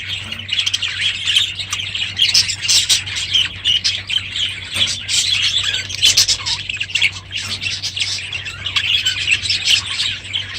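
A flock of budgerigars chattering and squawking without a break, many calls overlapping, over a low steady hum.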